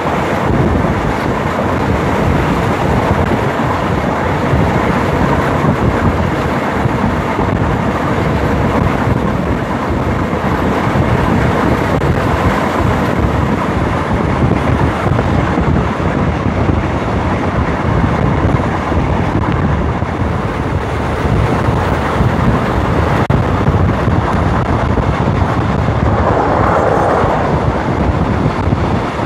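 Diesel-hauled passenger train running at speed, heard from an open carriage window: a steady, loud rumble of wheels on the rails and the locomotive, with a brief louder swell near the end.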